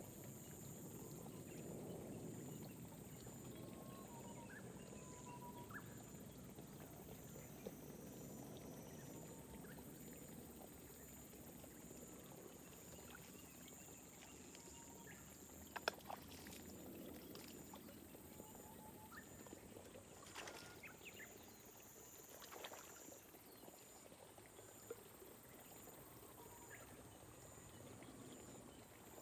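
Faint, gentle rain falling on terraced rice paddies, a soft even patter, with a few short bird chirps and a steady high-pitched pulsing throughout. A few sharp ticks, like drips, come a little past the middle.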